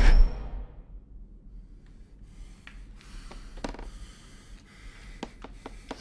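A loud sound cuts off within the first half-second, leaving a quiet, steady low rumble. Scattered soft clicks and creaks come through it, mostly in the second half.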